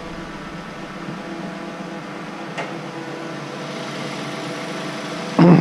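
2016 Toyota Avalon's 3.5-litre 2GR-FE V6 idling steadily, with a single brief click about halfway through.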